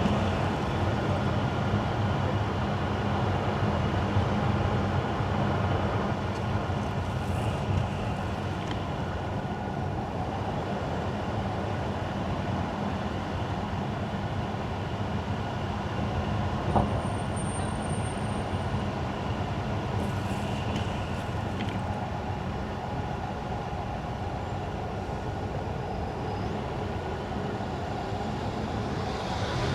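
Car driving on wet road: steady tyre and road noise with a low engine hum, and one short click about halfway through.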